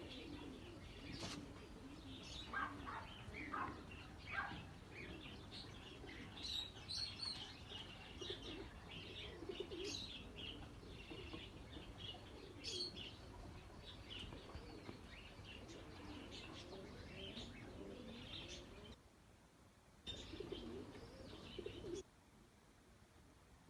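Fancy pigeons cooing, with many short high chirps of other birds over the cooing. It all drops away suddenly twice near the end.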